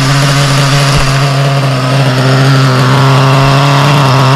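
Brand-new Novarossi Mephisto nitro engine in a Kyosho MP10 buggy idling steadily, loud and unchanging, during its idle break-in on the first tank of fuel.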